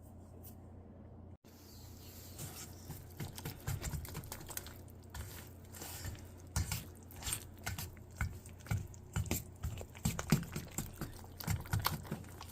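Kitchen utensils and dishware being handled during bread-making: irregular light clicks, taps and knocks, beginning after a brief dropout about a second and a half in.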